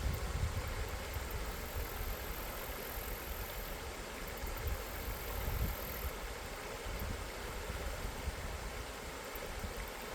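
Steady rushing of river water, with an uneven low rumble underneath.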